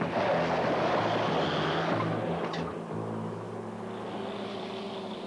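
Utility vehicle's engine running as it drives off, with a rush of noise that eases after about three seconds.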